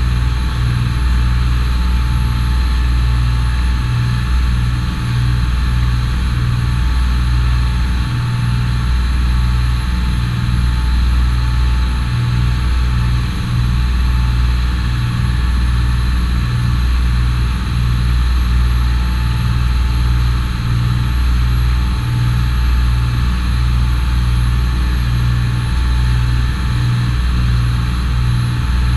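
Charter fishing boat's engine running steadily with a heavy low drone and a constant higher whine.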